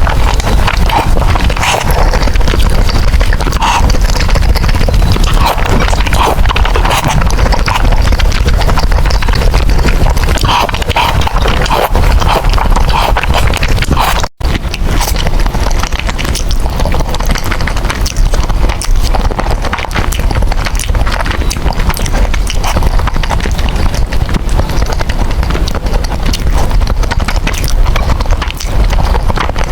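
Close-miked eating of spicy noodles: a continuous run of wet mouth clicks, chewing and slurping. The sound cuts out very briefly about halfway through.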